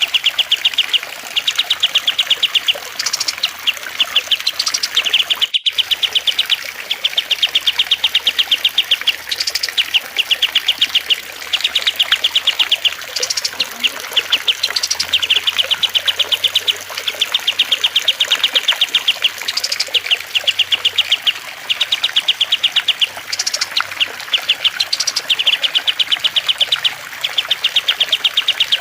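Looped songbird recording (a masteran mix of cililin, kastem and lovebird): rapid chattering trills about a second long repeat over and over, with sharp high chips between them, over a soft trickle of water. The sound cuts out for an instant about five and a half seconds in.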